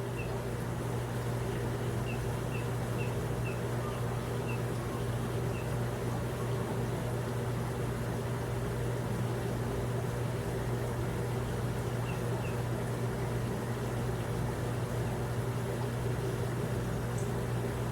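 A steady low mechanical hum, engine-like, with a string of faint short high chirps in the first few seconds and two more about twelve seconds in.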